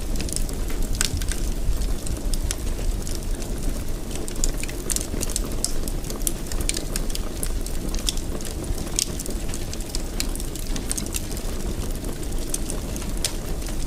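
Wood fire in a fireplace burning with a steady low rumble and frequent, irregular sharp crackles and pops.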